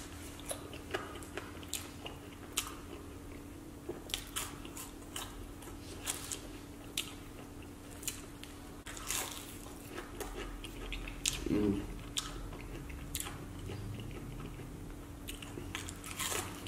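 A person chewing and biting fried fries up close to the microphone: many short crunches and wet mouth clicks, one after another.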